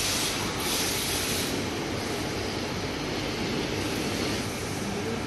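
A CNC panel bender (sheet-metal folding center) running, with a steady mechanical noise and a hiss that comes and goes in the first second and a half.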